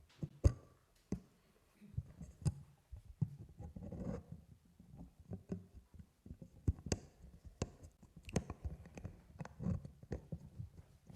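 Scattered small clicks, knocks and faint rustling at irregular moments, like handling noises from people and paper in a quiet room, with no one speaking.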